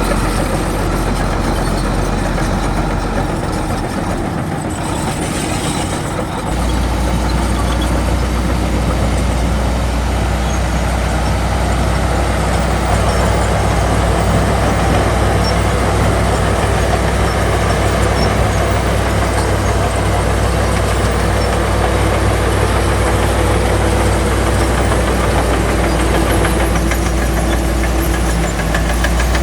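Heavy construction machine's diesel engine running steadily. Its low drone drops away about four seconds in and picks back up about three seconds later, then strengthens again.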